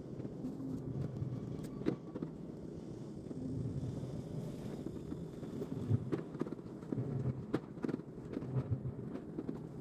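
Vehicle engine idling with a steady low hum, with scattered light clicks and knocks over it.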